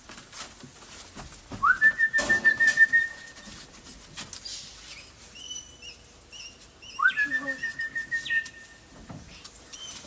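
A person whistling to call wild parrots: two long whistles, each sliding up and then held steady with a fluttering warble, a few seconds apart.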